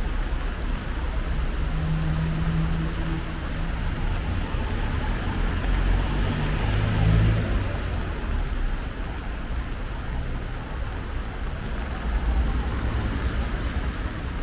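Road traffic on a city avenue in the rain: vehicles passing with engine hum that swells and fades, loudest about halfway through, over a steady hiss.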